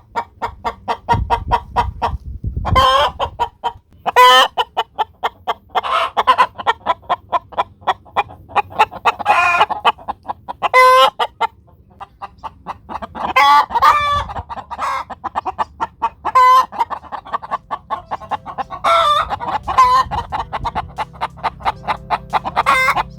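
Domestic hen's egg-laying cackle, the 'egg song' a hen gives after laying: a long run of quick clucks, about three or four a second, broken every few seconds by a louder, drawn-out squawk.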